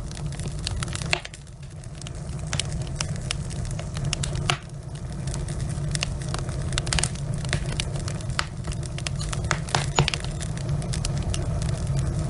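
Wood fire burning in a fireplace, the logs crackling and popping irregularly over a steady low rumble.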